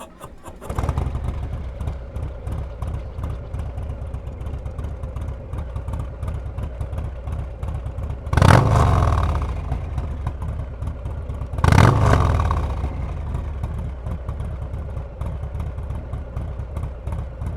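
Harley-Davidson Low Rider S Milwaukee-Eight 114 V-twin starting up and idling with a fast uneven pulse, then revved hard twice, about eight and twelve seconds in, each rev dying back to idle.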